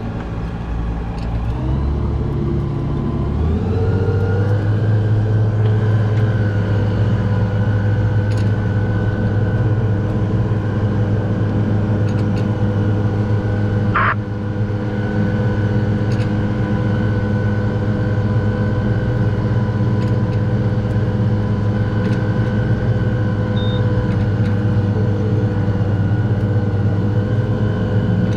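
Boat engine speeding up over the first few seconds, then running steadily at the higher speed, with one brief higher-pitched sound about halfway through.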